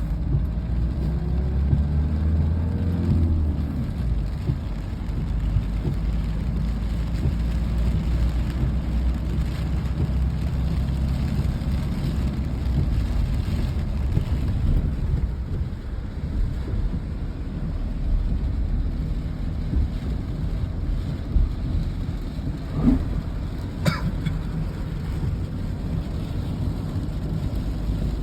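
Steady low rumble of a vehicle engine under rain; the engine's pitch rises in the first few seconds, and a couple of short sharp clicks come near the end.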